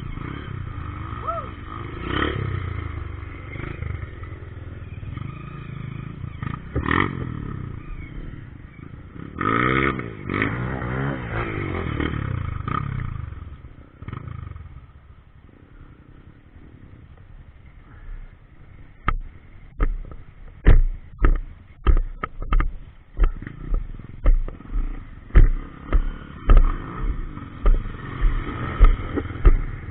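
Trail motorcycle engines revving, rising and falling in pitch, for the first half, then a quieter stretch. In the second half, a run of sharp thumps comes about twice a second.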